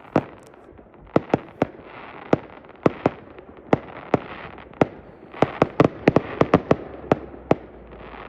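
Consumer fireworks going off close by: a string of about twenty sharp bangs at irregular intervals, coming thick and fast around two-thirds of the way through, with a crackling hiss between the reports.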